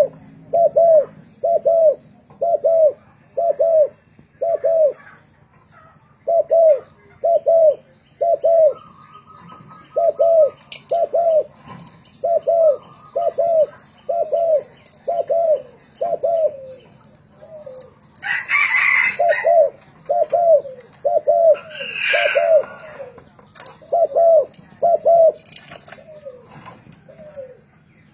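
Spotted doves cooing, short low arched notes repeated in twos and threes all through, as in a calling contest between birds. Twice, about 18 and 22 seconds in, a brief louder, harsher, higher-pitched sound cuts across the cooing.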